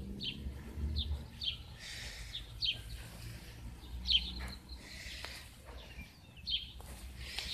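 A small bird chirping repeatedly in short, high, downward-sliding notes, one or two a second, with soft rustles between them.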